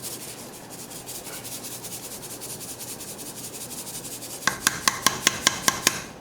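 Packet soup mix being worked through a small mesh sieve: a steady scratchy rubbing, then a quick run of about ten sharp taps with a metallic ring near the end.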